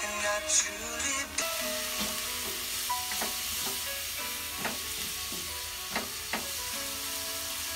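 Ground meat and onion frying in a black pot with a steady sizzle that starts about a second and a half in. A utensil stirs and scrapes through it against the pot in several sharp strokes.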